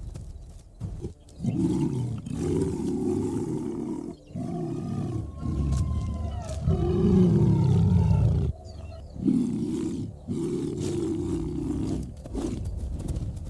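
Lions growling and roaring in a series of long, low calls broken by short pauses, at a contested kill.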